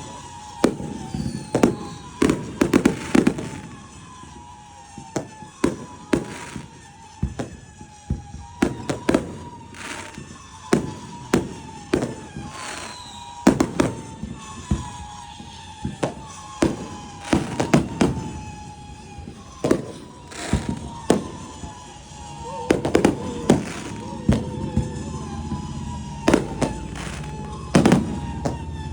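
Fireworks going off: a long irregular string of sharp bangs and deeper booms, often a second or less apart, each followed by a short echo, over a steady high tone.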